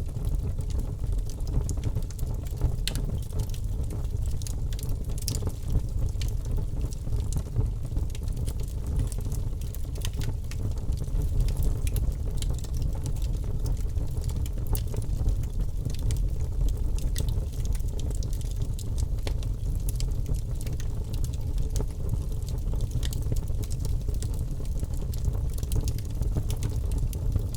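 Campfire burning: a steady low rush of flames with frequent sharp crackles and pops from the wood.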